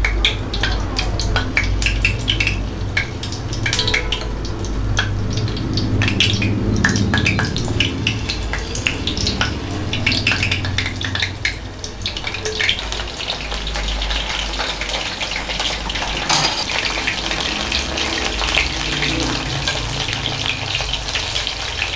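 Batter-coated mushroom pieces deep-frying in hot oil in a kadai, with steady sizzling and crackling. The crackle grows denser about halfway through as more pieces go into the oil.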